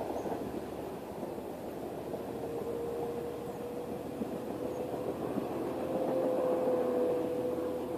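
A train rumbling past out of sight, with a steady whine running through the rumble from about two seconds in; the sound swells to its loudest near the end and then begins to fade.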